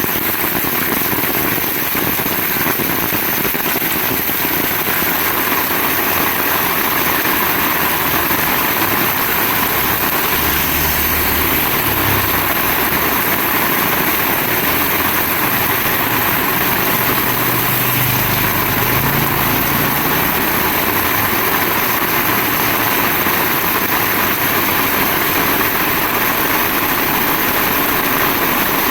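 Heavy rain pouring down steadily. A low hum rises and falls underneath it from about a third of the way in to about two-thirds of the way in.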